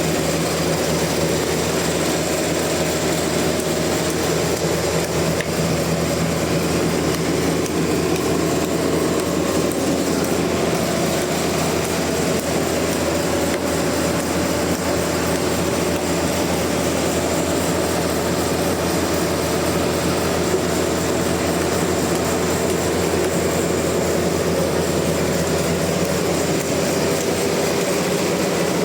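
Sawmill machinery running with a loud, steady drone that holds unchanged throughout.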